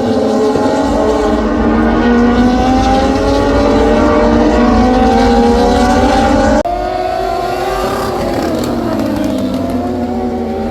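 MotoGP racing motorcycle engines at high revs, their pitch climbing steadily as the bike accelerates. About two-thirds of the way in the sound cuts abruptly to another engine note, which falls and rises again.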